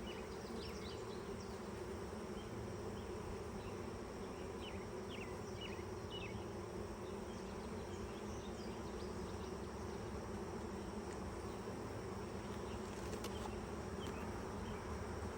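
Honeybees buzzing steadily around an open hive, a continuous drone from the colony on the pulled frames.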